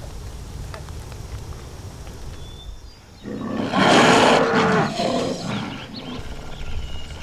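A loud, rough animal roar, a monster sound effect, that bursts in suddenly about three seconds in after a quiet stretch and lasts about two seconds with a wavering pitch before it fades.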